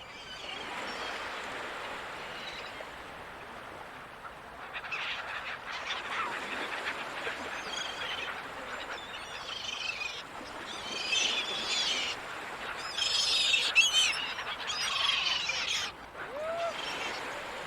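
A flock of gulls calling, with many short overlapping cries that crowd together and grow loudest about two-thirds of the way through, over a steady hiss of ocean surf.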